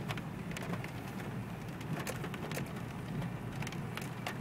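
Steady low drone of a car's engine and tyres on a gravel forest track, heard inside the cabin, with scattered sharp ticks throughout.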